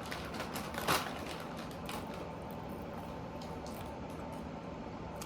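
Steady room noise with a faint hum and a few light clicks, the sharpest about a second in.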